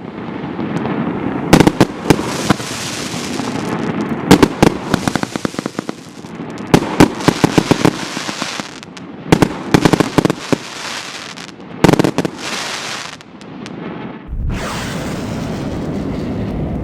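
Storm Blast firework going off in repeated volleys: clusters of sharp cracking bangs every two to three seconds, with hissing and crackle between them. About three-quarters of the way through the bangs stop and a steady rushing noise with a low rumble takes over.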